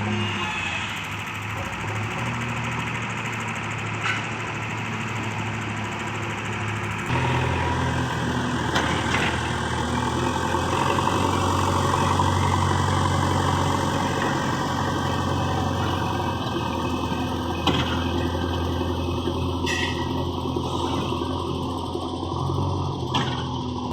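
Heavy diesel engine of earthmoving machinery running steadily. About seven seconds in it gets louder and changes pitch as it comes under more load, and a few sharp knocks sound over it.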